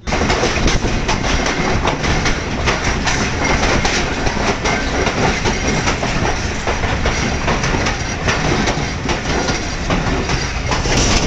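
Pakistan Railways passenger train running at speed: a loud, steady rumble of wheels on the track with rapid, irregular clicks and clacks over the rail joints.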